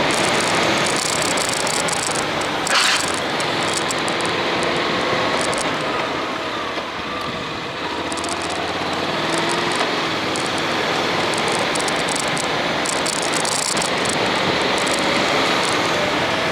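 Honda X-ADV's parallel-twin engine running under way, under heavy wind rush on the action-camera microphone. The engine eases off and the sound drops a little around the middle, then picks up again; a short thump comes about three seconds in.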